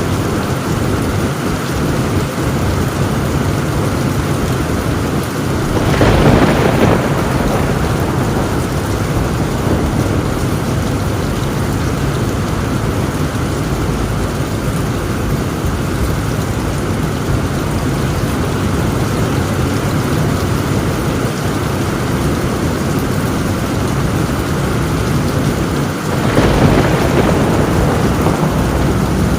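Heavy rain falling on a tin roof, a steady dense hiss, with two sudden louder thunderclaps that fade over a second or two: one about six seconds in and one near the end.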